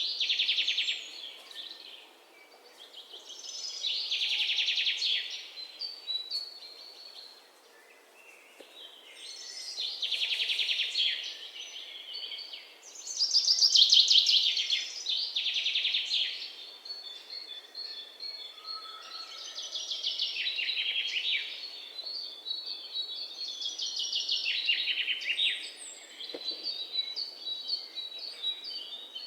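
Birds singing: rapid trilled phrases, each about two seconds long, repeated every four to five seconds.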